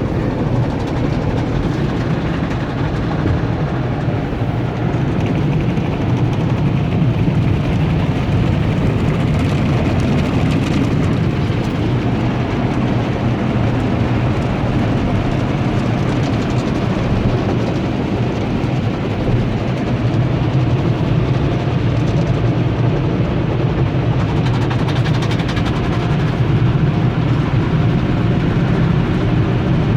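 Tunnel car wash heard from inside the vehicle: soft-cloth brushes and water spray working over the body with a steady low rumble and swishing.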